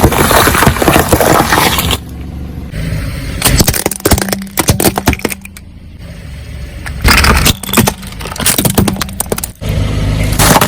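Objects crunching, cracking and breaking as a car's tyres roll over and crush them, in several loud spells of sharp crackling that start and stop abruptly.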